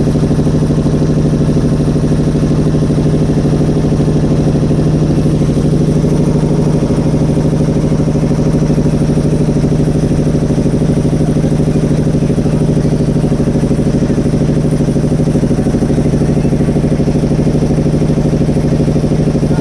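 Boat engine running steadily at an even speed, a constant low hum with a chugging pulse.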